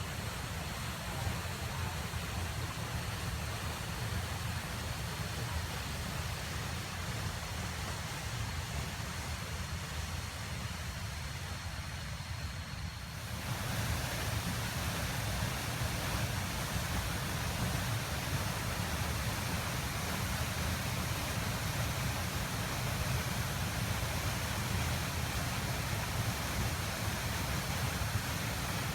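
Waterfall rushing steadily with heavy rainy-season flow, a constant roar of falling water that grows louder and fuller about halfway through.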